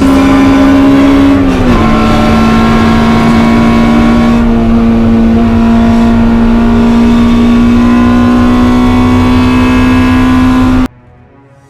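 Proton Wira's 4G93 MIVEC four-cylinder engine running hard at high revs under acceleration. Its pitch dips slightly about two seconds in, then climbs slowly and steadily, and the sound cuts off suddenly near the end.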